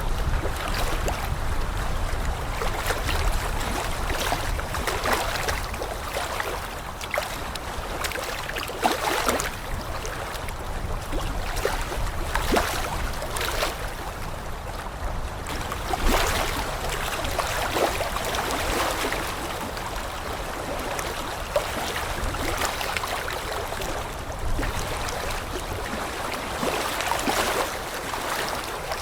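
Water flowing and splashing, with uneven swells of sloshing throughout.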